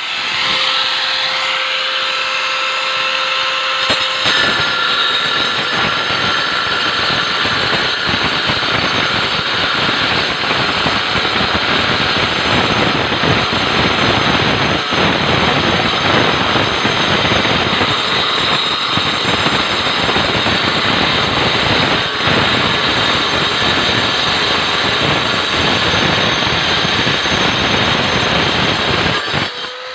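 JCK grinder with a cutting disc spinning free with a steady whine for about four seconds, then cutting into ceramic with a loud, harsh grinding noise. The grinding runs on until the disc lifts off just before the end.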